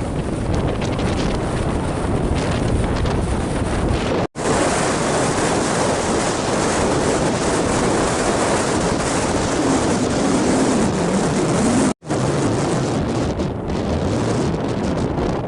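Strong wind rushing and buffeting the microphone, with waves breaking underneath. The sound cuts out for an instant twice, about four and twelve seconds in.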